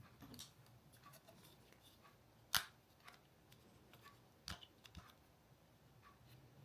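A few sharp clicks and taps of hard objects being handled, the loudest about two and a half seconds in and another about four and a half seconds in, with fainter ticks between, over a quiet room.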